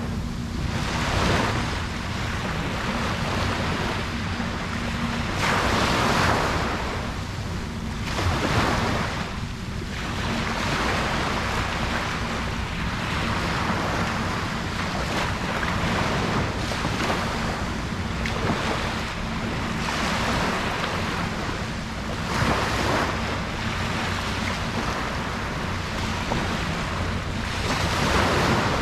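Ocean surf breaking and washing up a beach: a continuous hiss that swells louder with each incoming wave, several times at uneven intervals of a few seconds.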